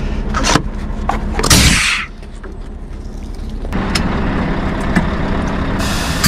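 Heavy truck's engine running, with several sharp knocks and clunks in the first two seconds. The engine note grows louder and fuller about four seconds in, and a steady hiss begins near the end.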